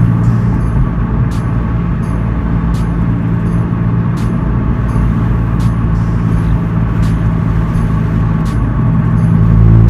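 MK7 Golf 1.8 TSI's engine running through a 3-inch straight-pipe Magnaflow cat-back exhaust with no resonator or muffler. The steady drone eases off early on and comes back strongly near the end, with a regular tick about every 0.7 s.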